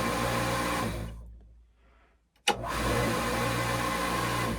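Electric pump motor running with a steady hum, stopping about a second in, then clicking on again about two and a half seconds in and running on. It is being briefly test-run after winter to spread the vegetable oil inside it and check that it works.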